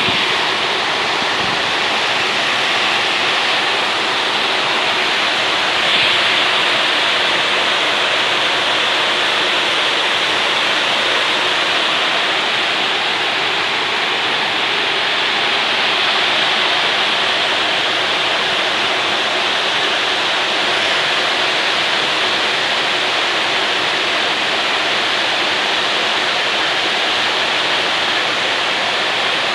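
Heavy tropical downpour: a dense, steady rush of rain with no let-up, and a brief louder surge about six seconds in.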